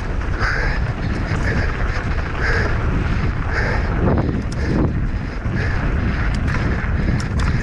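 Wind buffeting the microphone of a camera carried by a mountain biker riding downhill at speed, a steady roar with a hiss that swells about once a second. Scattered clicks and rattles from the bike on rough ground come in the second half.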